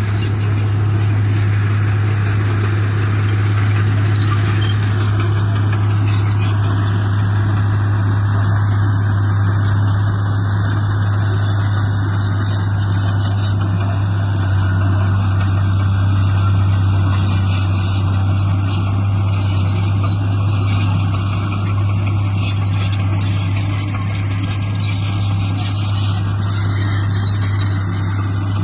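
Heavy diesel engine of earthmoving equipment running steadily, with a strong, constant low drone.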